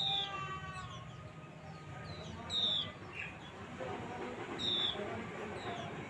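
Birds calling in a tree: three loud, short calls, each sliding downward in pitch, spaced about two seconds apart, over fainter scattered chirps.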